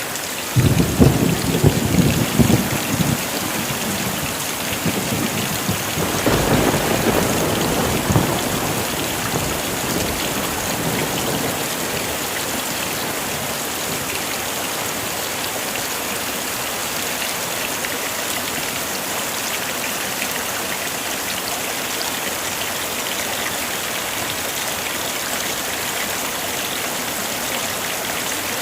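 Heavy rain pouring steadily, with two rolls of thunder rumbling in the first nine seconds or so, the first about half a second in and the second about six seconds in.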